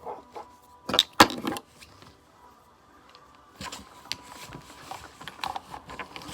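Small plastic makeup items clattering as they are packed into a makeup bag: two sharp knocks about a second in, then softer scattered tapping and rustling.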